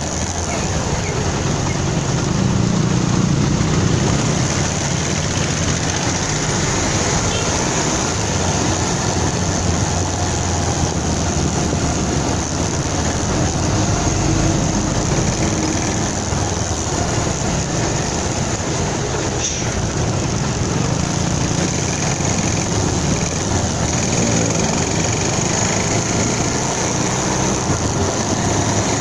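Motorcycle under way: its engine runs steadily, mixed with road and wind noise.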